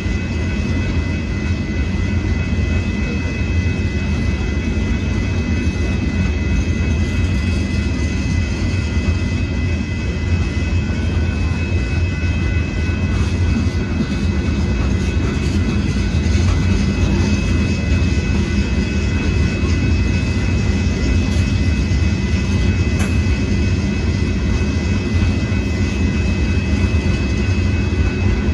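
Union Pacific rock train's hopper cars rolling past over a grade crossing: a steady heavy rumble of wheels on rail, with two steady high-pitched ringing tones over it.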